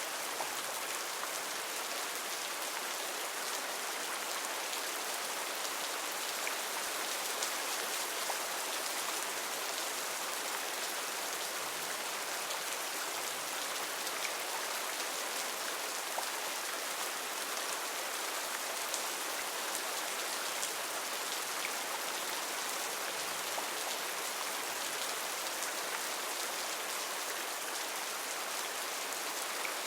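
Steady heavy rain falling and pattering on surfaces, an even dense hiss with fine crackle of drops and no letup.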